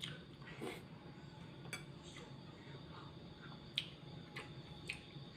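Close-up eating sounds of karedok: scattered wet mouth clicks and smacks while chewing, with one sharper click a little before four seconds in.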